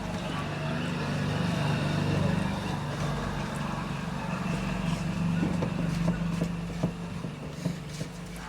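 A steady low engine hum that swells about a second in and eases off near the end, with a few light clicks over it.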